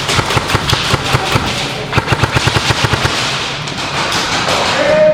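Airsoft guns firing rapid strings of shots, many sharp cracks in quick succession.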